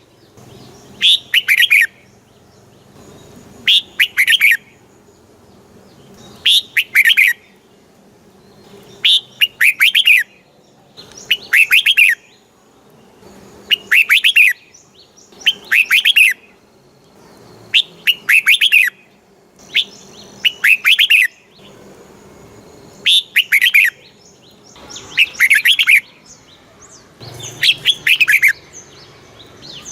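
Red-whiskered bulbul singing loud, short, warbling phrases, one about every two seconds, over and over.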